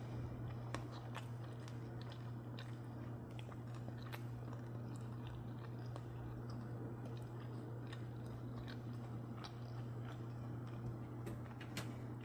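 A person chewing food, with irregular small crunchy clicks over a steady low hum.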